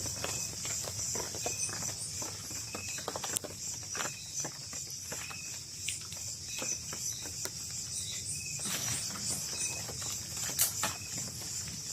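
Night-time rainforest insect chorus of crickets: a steady high-pitched trill with small repeated chirps over it. Scattered footsteps and rustles of people moving through the undergrowth run over it, with a sharper snap about ten and a half seconds in.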